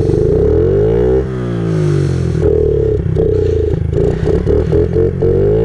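Honda CRF50 pit bike's small four-stroke single-cylinder engine revving up and down, climbing in pitch during the first second, falling back, then faltering unevenly about four seconds in before climbing again near the end. The engine is running poorly, bogging and wanting to die unless given gas.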